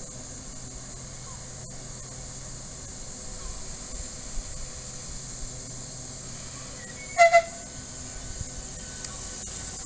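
Southeastern Class 395 Javelin high-speed electric train at the platform with a steady hiss and low hum from its equipment. About seven seconds in it gives two short horn toots as it starts to move off.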